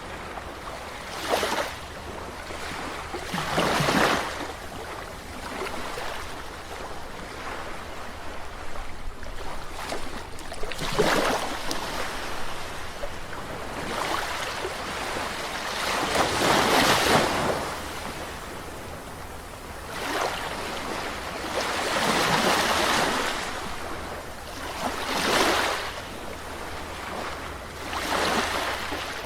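Sea waves breaking and washing on a shore, a surge every few seconds over a steady hiss of surf, with the biggest swells about 11, 17 and 22 seconds in.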